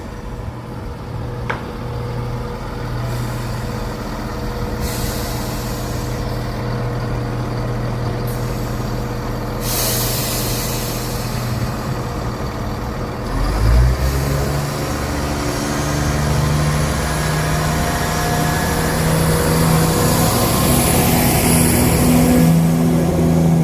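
Diesel multiple unit standing at the platform with its engines running, with two hisses of air about five and ten seconds in as the air brakes release. About fourteen seconds in the engines open up with a thump and the unit pulls away, the engine sound growing louder.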